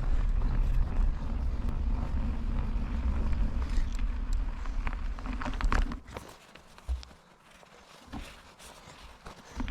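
Riding noise from a moving bicycle: a low rumble of wind on the microphone and tyre noise on the road. About six seconds in it drops away to faint scattered clicks, then picks up again at the very end.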